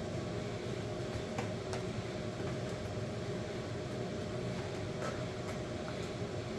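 Steady indoor background noise with a low hum, broken by a few faint clicks.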